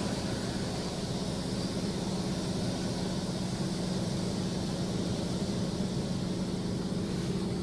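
Automatic car wash machinery running, heard from inside the car: a steady motor hum under an even hiss of water spray.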